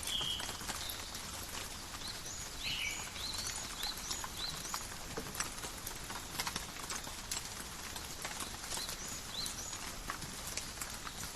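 Steady light rain falling in a forest, with irregular drops tapping close by. Short high chirps sound several times in the first half and again near the end.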